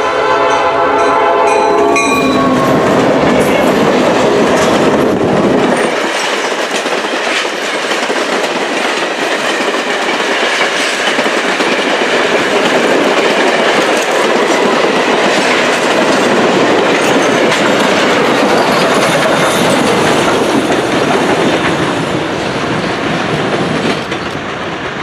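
A train's multi-note chime whistle sounding a chord that cuts off about two seconds in, then a passenger train rolling past close by with clattering wheels on the rails.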